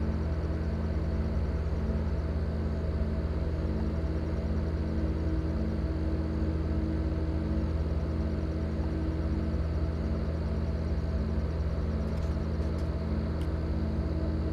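Steady low industrial drone with a throb of about one and a half to two beats a second, which the uploader attributes to a giant industrial engine exhausting skyward at an aluminium plant.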